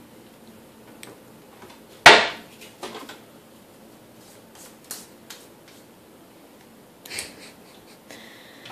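Kitchen handling sounds: one sharp knock about two seconds in, then a few lighter clicks and taps as bowls, shells and utensils are moved about.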